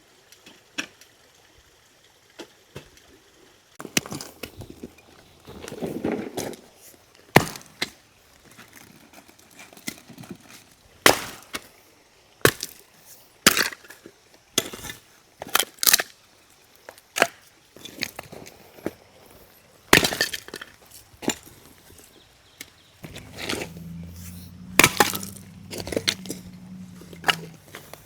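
An irregular series of sharp knocks, clinks and snaps, some loud. A low steady hum comes in for a few seconds near the end.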